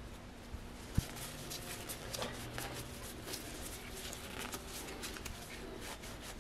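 Small clicks, taps and light rattles of metal parts being handled as a Mercedes ABC hydraulic valve block is taken apart, with one sharp click about a second in, over a faint steady hum.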